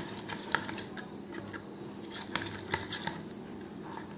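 Freshly activated glue slime being worked and pulled by hand, giving an irregular scatter of small sticky clicks and crackles.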